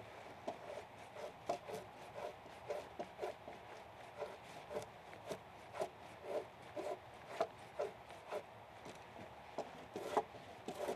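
Hand tool working timber in short repeated strokes, about two a second.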